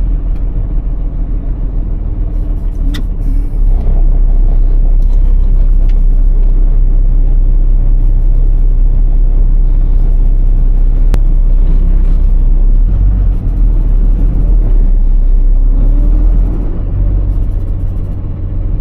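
Iveco Tector truck's six-cylinder diesel engine running while driving, a steady low rumble that grows louder about four seconds in as it pulls under load and eases off near the end. Two sharp clicks cut through, one early and one about midway.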